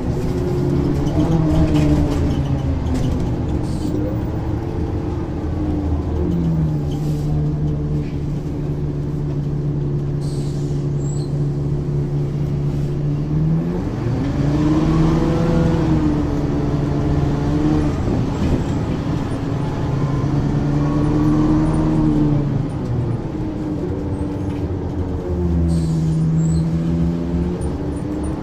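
Diesel engine of a 1994 Ikarus 435 articulated bus with ZF gearbox running under way. Its note holds steady for several seconds, climbs about halfway through, drops back, and climbs again near the end as the bus pulls away and changes speed.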